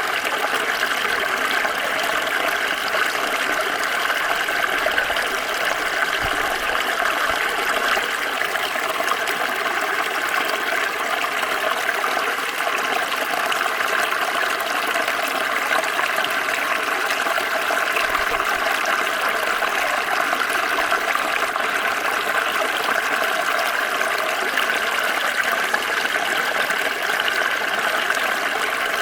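Small stream flowing and trickling over stones: a steady, unbroken rush of running water.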